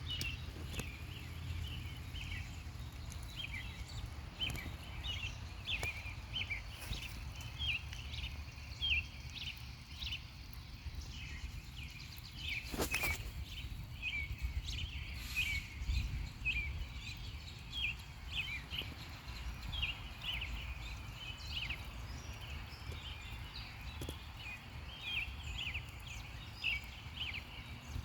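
A chorus of cicadas: many short, high calls overlapping and repeating irregularly, each dropping slightly in pitch at the end, over a low rumble. A single sharp knock comes about halfway through.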